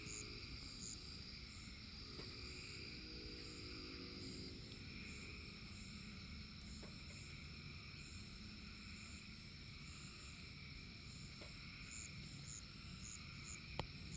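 Chorus of crickets and frogs: a steady high trill with regular pulsing calls underneath. In the first few seconds a faint, distant chord of a train's multi-chime K5LLA air horn sounds, and there is a single sharp click near the end.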